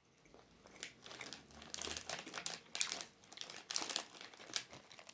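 Plastic snack packaging crinkling as it is handled, in irregular crackles starting about a second in.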